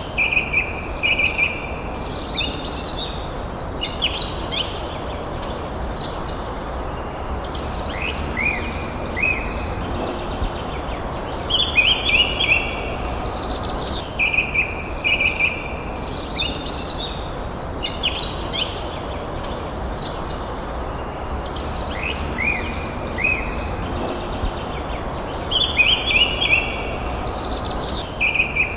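Forest birds singing: short phrases of clear notes, some dropping steeply in pitch, repeated every second or two over a steady low background hiss.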